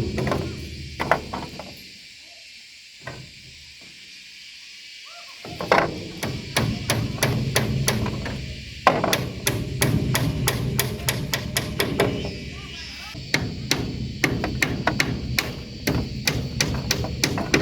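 Hammering: runs of rapid, sharp blows, about three or four a second, with a pause of a few seconds near the start. Insects buzz steadily underneath.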